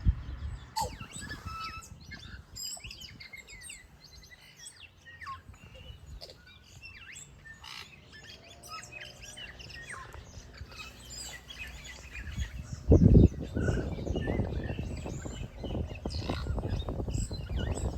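Small birds chirping and calling, many short overlapping calls. About thirteen seconds in, a louder low rumbling, rustling noise starts suddenly and carries on alongside the birdsong.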